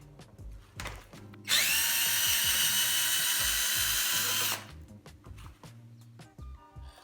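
A handheld electric power tool, drill-type, spins up with a rising whine about one and a half seconds in, runs steadily for about three seconds, then stops, over background music.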